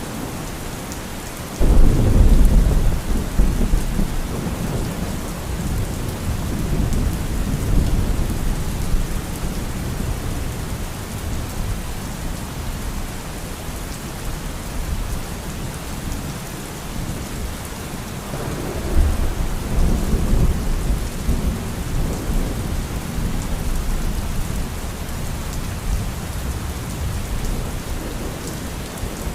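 Steady rain with thunder: a sudden loud thunderclap about two seconds in that rolls on for several seconds, and a second, softer roll of thunder about two-thirds of the way through.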